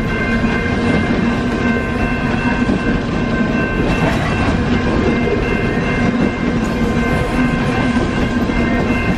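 Loaded-style freight train of coal hopper cars rolling past close by: a continuous heavy rumble of steel wheels on the rails, with a steady high-pitched ringing tone over it.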